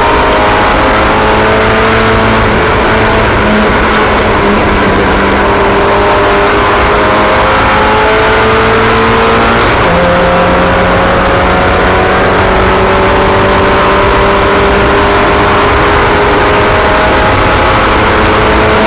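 Several small racing engines running together on track, their overlapping pitches slowly rising and falling as the cars accelerate and lift; the mix of pitches shifts about halfway through.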